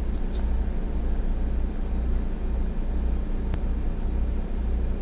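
Steady low rumble, with one faint click about three and a half seconds in.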